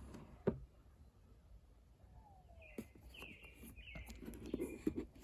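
Birds chirping faintly in the background, with a run of short high chirps about halfway through. A few light clicks and rustles of the monitor's packaging being handled come through, the sharpest about half a second in.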